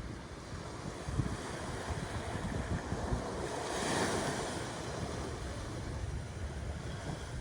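Ocean waves breaking on a shore: a steady wash of surf that swells to its loudest about halfway through and then eases back, over a low rumble.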